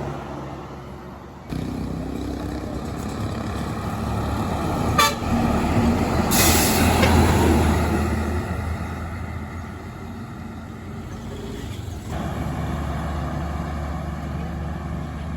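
Heavy vehicle engine running, with a short horn toot about five seconds in. A loud burst of air-brake hiss follows just after and is the loudest sound.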